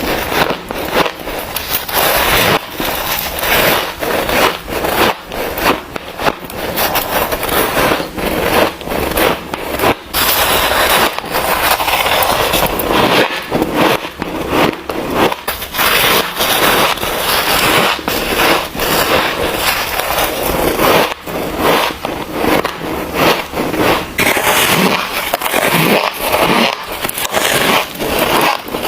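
Freezer frost being bitten and chewed close to the microphone: a dense, unbroken run of crunching and crackling.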